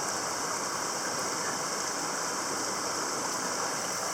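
Mountain stream water rushing with a steady, even hiss.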